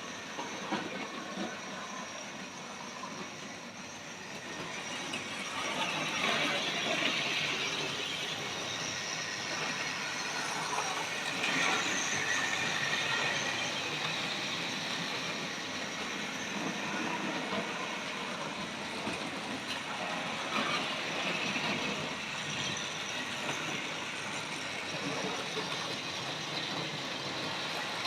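Hornby model train running on its track: a steady whirring and rattling of motor and wheels on the rails, getting louder about five seconds in as it comes nearer.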